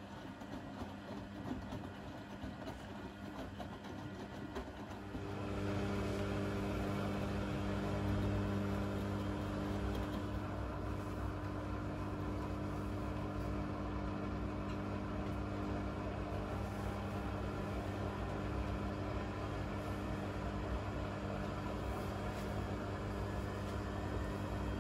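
Blomberg fuzzyDigitronic Granat 3200 washing machine running a wash programme: uneven machine noise, then about five seconds in a motor starts and runs with a steady hum at a constant pitch.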